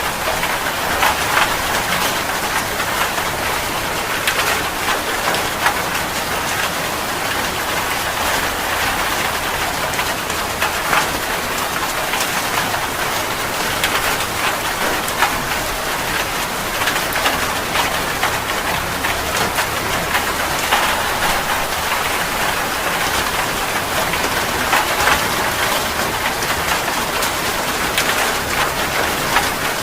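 Heavy rain falling steadily: a dense, even hiss with many sharp drop splashes on a hard surface.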